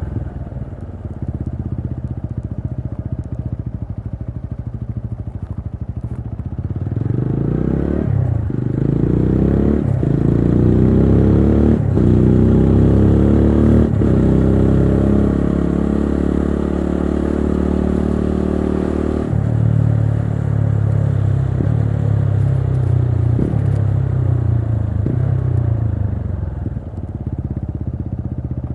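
TVS Apache RTR 200 4V's single-cylinder engine pulling hard up through the gears, its note climbing in sweeps broken by four quick upshifts, holding high, then cut sharply as the throttle closes and falling through a string of downshifts.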